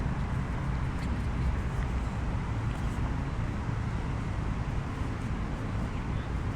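Steady low rumble of street ambience: road traffic with wind on the microphone.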